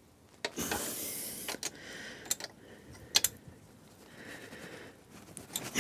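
A ratchet wrench snugging down the cylinder barrel nuts on a Suzuki K10 two-stroke: rasping ratchet strokes and a few sharp metal clicks.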